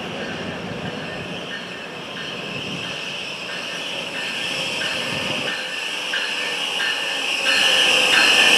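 NJ Transit commuter train approaching, its rail and wheel noise growing louder near the end over the steady hiss of rain.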